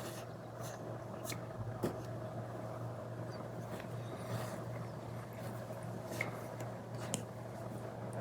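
Apple Pencil Pro tip scratching in short strokes and tapping on a paper-feel matte screen protector over an iPad, a few separate ticks and brief scrapes over a steady low hum.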